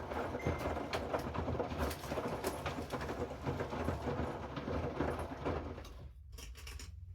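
Hoover front-loading washing machine's drum tumbling a wash load, water sloshing with many small clicks and knocks. The tumbling stops about six seconds in, leaving a steady low hum.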